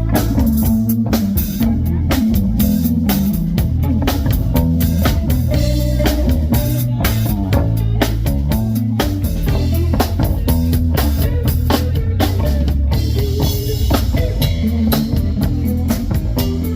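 Live blues band playing: guitar over bass guitar and a drum kit keeping a steady beat.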